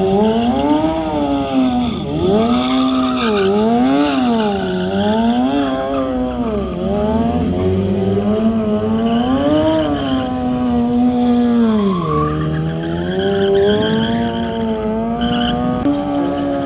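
Stunt motorcycle engine revving hard, its pitch rising and falling about once a second under repeated throttle blips, dropping lower about twelve seconds in and climbing again near the end.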